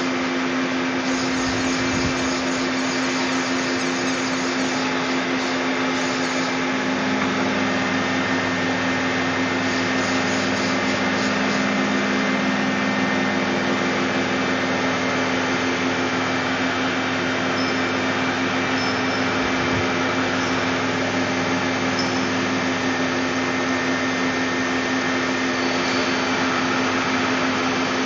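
Puma 350 CNC lathe running with a steady mechanical hum and whine. A lower hum joins about seven seconds in.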